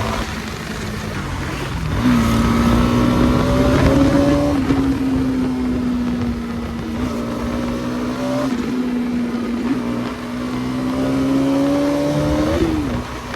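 Bajaj Pulsar NS200 motorcycle's single-cylinder engine running on the highway. The revs pick up about two seconds in, then hold a steady note with a few brief dips, under wind and road rush.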